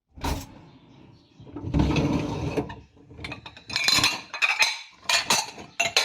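A thump, a rustling stretch, then a quick run of sharp knocks and clinks of hard objects.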